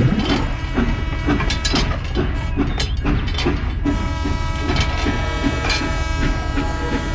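Train running on rails with a continuous rumble and regular rhythmic clacks. About four seconds in, a steady pitched tone sets in and holds over the running sound.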